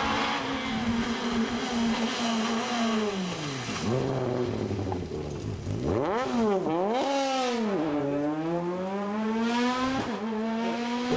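Rally car engine at high revs on a stage. The revs drop about three to four seconds in, there is a quick series of rev swoops around six to eight seconds as the car brakes and downshifts, and then they climb steadily again under full throttle with an upshift near the end.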